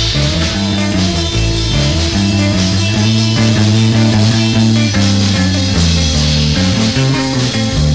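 Instrumental break of a rock song: electric guitar and bass over drums, with no singing.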